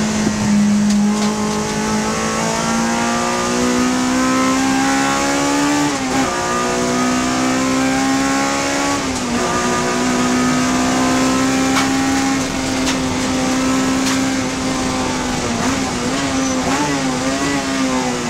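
Honda Civic FD2 race car's four-cylinder engine running hard at high revs. Its pitch climbs, then drops sharply at gear changes about six and nine seconds in, holds high, and wavers up and down near the end.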